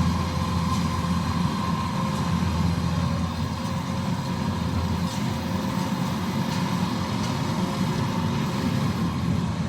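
Combine harvester engine running steadily, a constant low drone with a steady hum and a higher whine held above it.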